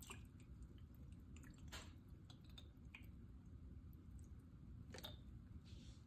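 Near silence: low room rumble with a few faint, short clicks.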